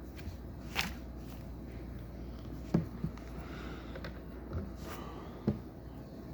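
Plastic LEGO pieces being handled during a build: a few scattered light clicks and dull knocks, the loudest knock about three seconds in.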